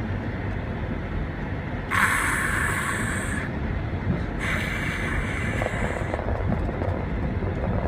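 A car driving, heard from inside the cabin: steady low road and engine rumble. Twice a rushing hiss swells up for a second or two, about two seconds in and again about four and a half seconds in.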